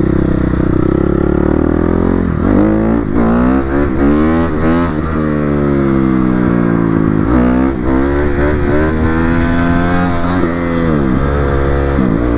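Dirt bike engine being ridden hard: the revs climb and fall over and over, with several sudden drops in pitch as the throttle is chopped or a gear changes.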